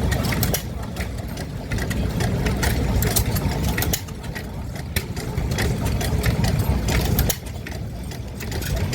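Vintage stationary engines running, with irregular sharp exhaust pops over a low rumble, and background voices. The sound changes abruptly three times, as if moving from one engine to another.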